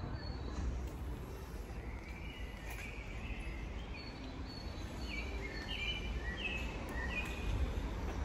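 Birds chirping, a run of short falling calls starting about two seconds in, over a steady low rumble of street background noise.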